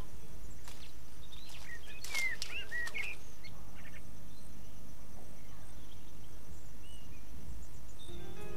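Outdoor ambience with a steady low hiss and hum; a bird gives a quick run of short chirps about two seconds in. A few faint clicks and rustles come and go.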